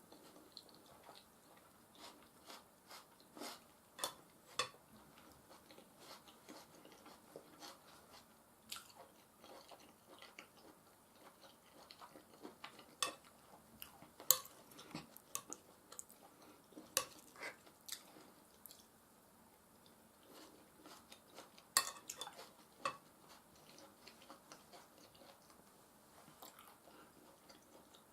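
Close-miked chewing and mouth sounds of someone eating soft mashed potatoes and beef stew. Short sharp clicks and taps come at irregular moments, the loudest a little past the middle and again later.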